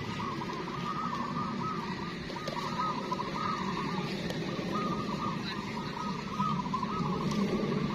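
Many caged zebra doves (perkutut) cooing at once, their trilled, rolling phrases overlapping almost without a break, over a low background rumble.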